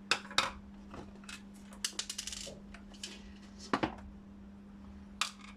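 Sharp clicks and light clatter of small hard parts being handled and set down: the steam iron's plastic back cover, its screws and the screwdriver. A steady low hum runs underneath.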